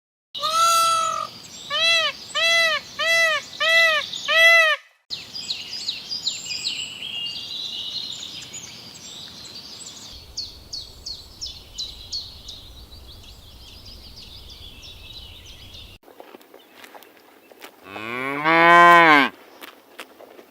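A cow mooing once, long and loud, near the end. Before it come six short, high-pitched calls in quick succession, then a stretch of rapid chirping.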